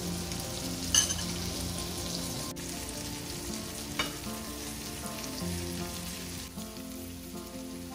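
Sliced onions and hilsa fish roe sizzling as they fry in oil in a nonstick pan, with two sharp clicks, about a second in and again near four seconds, as the tongs stirring them touch the pan. Faint background music sits underneath.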